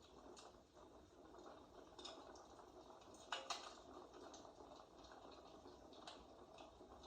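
Fireplace crackle, faint: a soft steady hiss with scattered small pops, two sharper pops a little past the middle.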